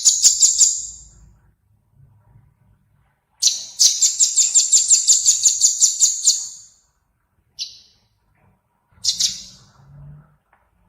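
A small songbird calling in high, piercing notes. It gives a quick run of chirps, then a rapid trill of about seven notes a second lasting nearly three seconds, then two short single calls.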